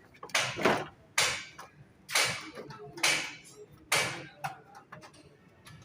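Bodywork on a car's front bumper: a series of short knocks and scrapes, about seven at irregular intervals of roughly half a second to a second.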